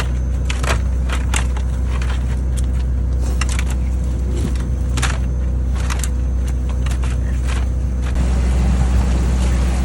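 Steady low motor hum with scattered sharp clicks and knocks; about eight seconds in, a hiss like running water joins and stays.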